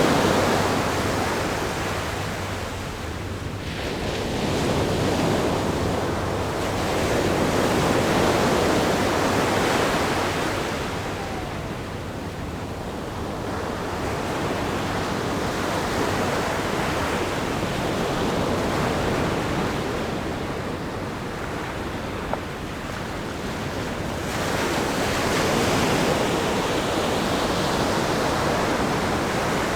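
Ocean waves breaking against a rock groin and washing up a sandy beach, the surf swelling and ebbing in slow surges every several seconds, with a little wind on the microphone.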